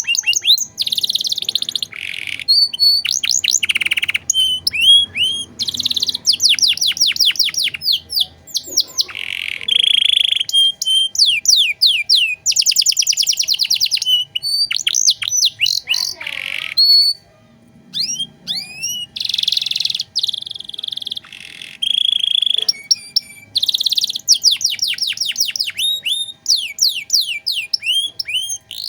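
Domestic canary singing a long, varied song: fast trills of repeated down-slurred notes alternating with buzzy rolled phrases, with a brief pause about two-thirds of the way through.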